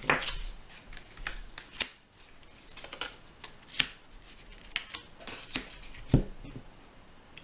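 Tarot cards being handled: irregular sharp card snaps and slaps with soft rustling between.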